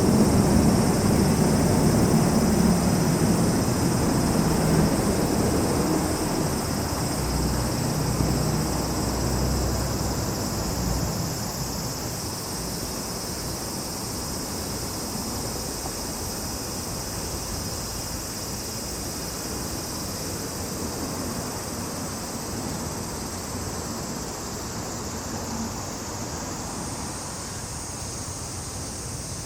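A distant engine rumble passes and fades away over the first ten seconds or so, above a steady, high-pitched chorus of summer insects that goes on throughout.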